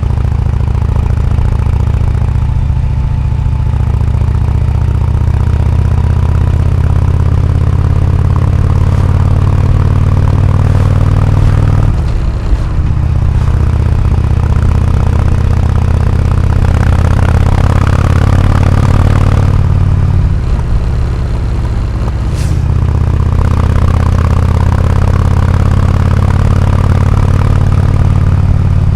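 Harley-Davidson Road King's Twin Cam 103 V-twin running through an aftermarket AMC HD4 exhaust, a deep, loud exhaust note whose pitch climbs in stretches. The note dips briefly twice, about twelve and twenty seconds in.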